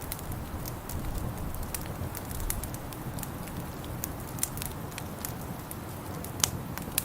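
Wood fire crackling in a fireplace: irregular snaps and pops over a steady low rumble, with one sharper pop about six and a half seconds in.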